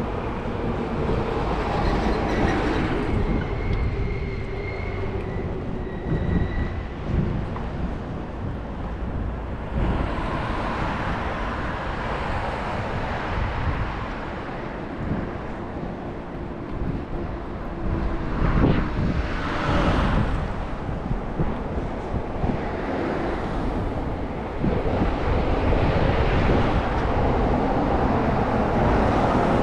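Wind buffeting the microphone over a steady low rumble of city noise.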